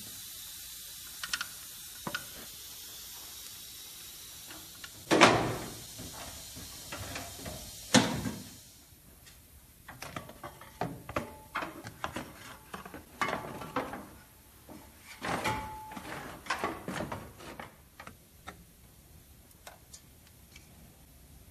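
Water pump bolts being fastened on a Ford 302 V8 with a ratchet and metal hand tools: ratcheting, clinks and knocks, with two louder bursts about five and eight seconds in over a steady hiss, then a run of irregular clinks.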